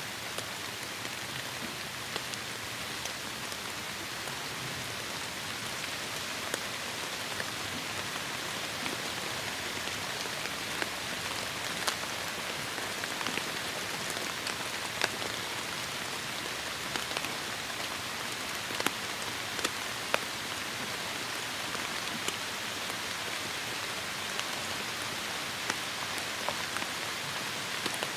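Heavy rain falling steadily, a dense even hiss with scattered sharper drop hits, a few louder ones in the middle stretch.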